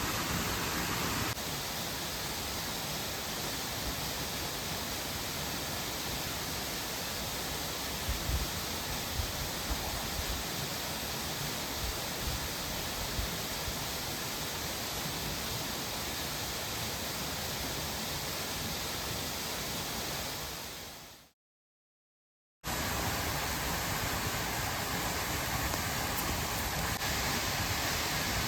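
Steady rush of a waterfall and mountain stream, even and unbroken. About 20 seconds in it fades out into a second or so of dead silence, then the rush comes back at once.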